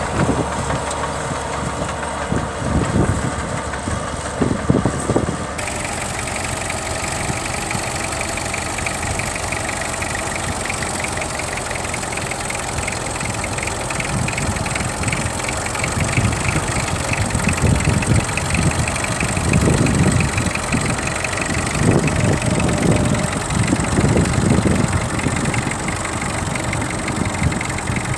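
Tractor engine running steadily, with low rumbles swelling and fading in the second half.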